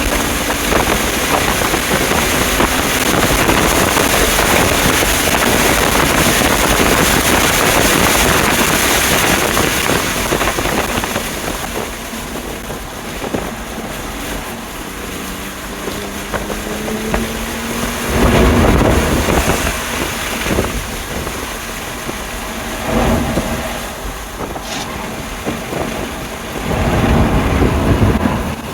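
2020 BMW M2 Competition's twin-turbo inline-six pulling hard at speed, mixed with heavy wind and tyre noise. The engine pitch rises through the middle, and three loud low rumbles come through past halfway.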